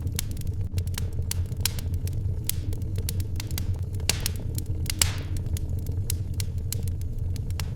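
Wood fire in a fireplace crackling, with irregular sharp pops over a steady low rumble. A louder hissing pop comes about five seconds in.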